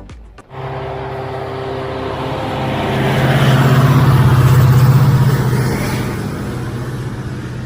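Railway locomotive engine passing close by: a steady, loud hum with fast pulsing that swells to a peak about halfway through and then fades. It cuts in abruptly about half a second in.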